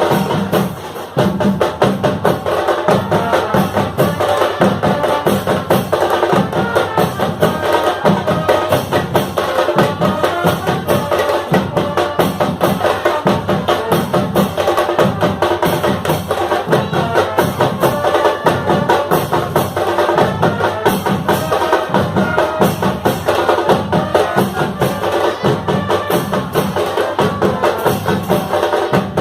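Marching fanfare band of brass and drums playing a tune, with the bass drum keeping a steady beat under the melody.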